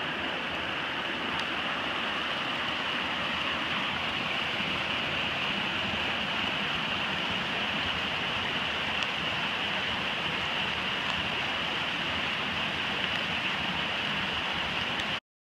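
Steady hiss of rain falling on the water around the canoe, with a few faint drop-like ticks. It cuts off suddenly near the end.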